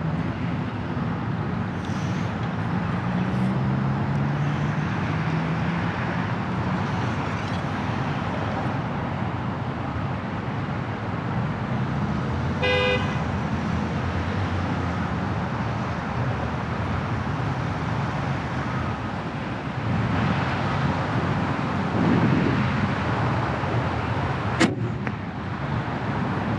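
Steady road traffic noise with a brief car horn toot about halfway through. Near the end comes one sharp snap: a PSE compound bow shooting an arrow, a sound the archer likes a lot.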